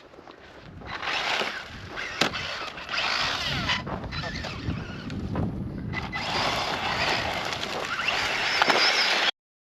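Electric RC truck driving over loose ground: the brushless motor's whine rises and falls with the throttle over the scrabble and scrape of the tyres, with a few sharp knocks. It cuts off suddenly near the end.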